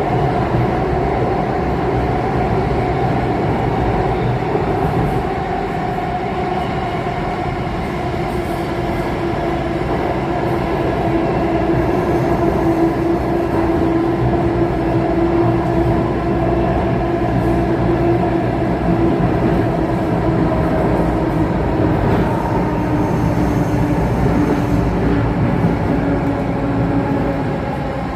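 Alstom Metropolis C830 metro train running between stations, heard from inside the car: a steady rumble of wheels on rail with the traction motors' humming tones drifting slightly in pitch.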